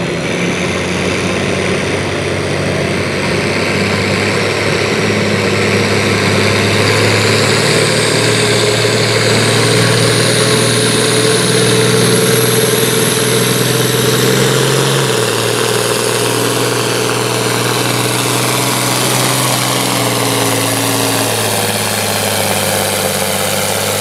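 International Harvester 1066 tractor's diesel engine running steadily before a pull, its speed stepping up about five seconds in and back down about fifteen seconds in. A high whistle rises and falls in the middle.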